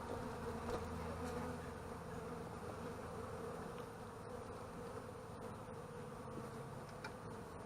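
Honeybees from an opened hive buzzing in a steady hum of many bees.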